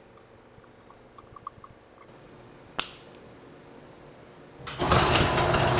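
Faint small clicks and one sharp click, then near the end a loud, steady mechanical running noise with a low hum starts abruptly.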